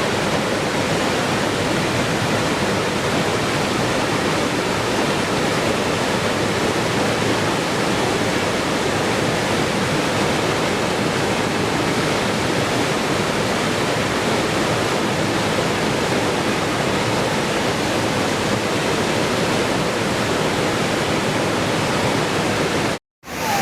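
Waterfall, a steady, even rushing of water with no changes in it, cutting out for a moment just before the end.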